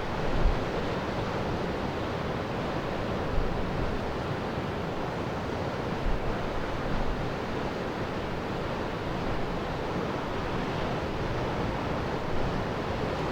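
Steady wind and surf noise, with gusts buffeting the microphone in low rumbles.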